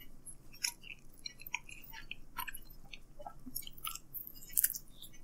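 A person chewing thin-crust pepperoni pizza with the mouth open: a run of small wet smacks and clicks, and a bite into a slice near the end.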